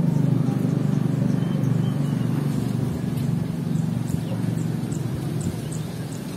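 Low rumble of a passing motor vehicle, loudest at the start and slowly fading, with faint short high bird chirps over it.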